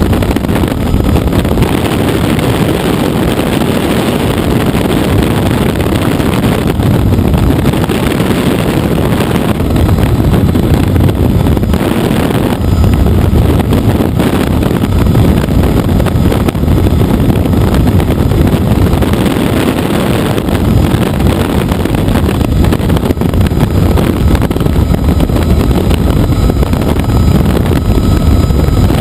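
Helicopter in flight: steady, loud engine and rotor noise, heavy in the low end, with wind buffeting the microphone.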